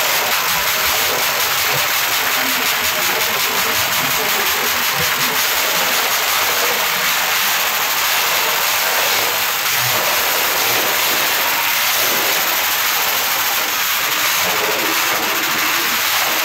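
Motorcycle engines running loudly and steadily, with crowd voices underneath.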